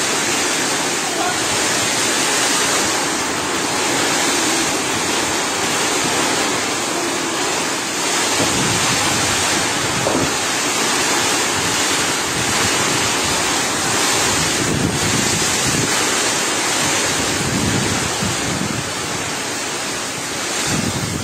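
Storm wind blowing hard as a dense, steady hiss. From about eight seconds in, gusts buffet the microphone in uneven bursts.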